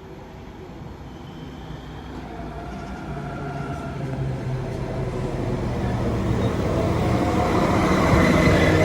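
Class 195 diesel multiple unit approaching the station, its engine and running noise growing steadily louder as it comes in.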